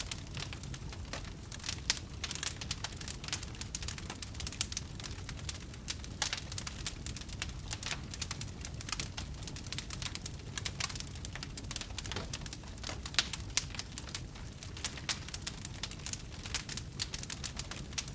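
Wood campfire crackling, with many irregular sharp pops and snaps over a steady low noise from the fire. Two pops stand out louder, about two seconds in and again about two-thirds of the way through.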